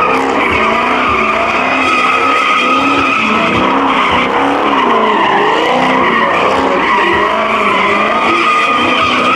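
Muscle car doing a burnout: the engine revs rise and fall continuously while the spinning rear tires squeal steadily.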